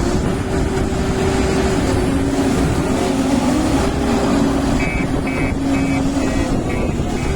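JCB Vibromax soil compactor's diesel engine running steadily under a low, loud drone with a steady hum. About five seconds in, a series of short high beeps starts, about two a second.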